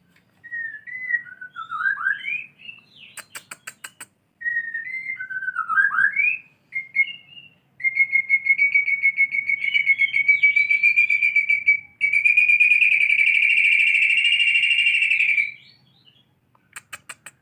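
White-rumped shama singing, mimicking canary song: two whistled phrases that swoop down and back up, then a long fast trill held on one pitch for about seven seconds. Two short bursts of rapid clicks come about three seconds in and near the end.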